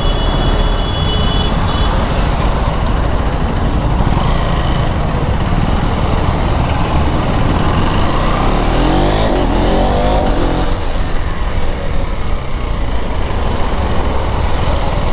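Onboard sound of a KTM Duke 390's single-cylinder engine running on the move in traffic, under a steady rush of wind and road noise. About nine to ten seconds in, an engine note sweeps up and back down.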